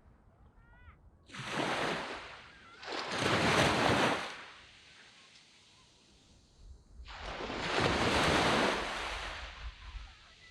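Sea waves breaking and washing up a sand beach: three surges of surf, two close together in the first half and a longer one after a lull, each swelling and then fading.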